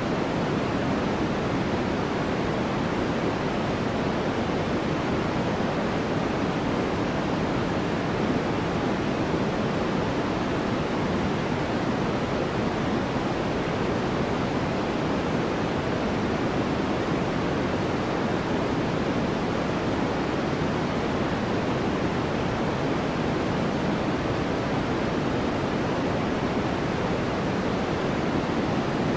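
Steady generated sleep noise: an even, unchanging hiss with its weight in the lower range, deeper and softer than true white noise.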